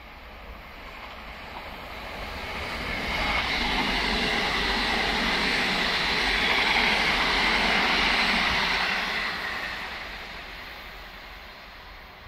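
A Southern Class 377 electric multiple unit passing through the station at speed on the main line. Its wheel and rail noise swells over about two seconds, holds for about five, then fades away.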